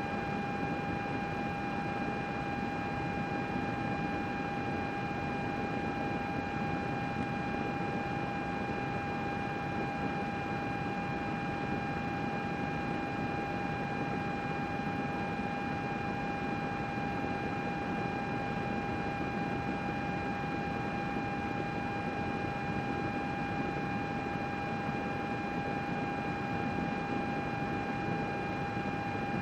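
Computer cooling fans running steadily: an even rushing of air with a constant high whine and its overtones.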